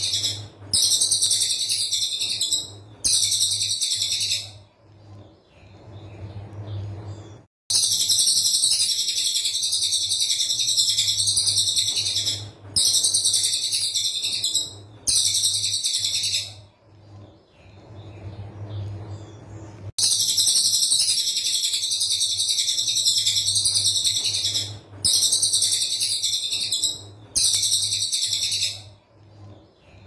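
Brown cililin singing its rapid, dense, high-pitched rattling song ('tembakan rapat') in repeated bursts of one to five seconds with short pauses between, over a faint low hum.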